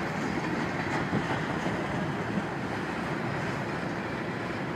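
Long CSX freight train's cars rolling past on the rails, a steady rumble of wheels and running gear.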